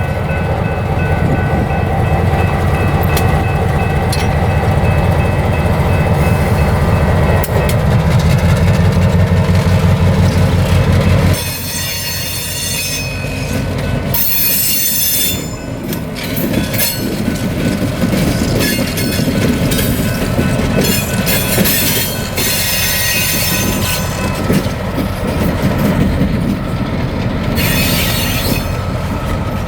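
EMD SW1200 switcher locomotive running loud and close, its diesel engine's low rumble steady for about eleven seconds before dropping away suddenly. After that, the steel wheels squeal on the rails in repeated high bursts over a quieter rumble of the moving train.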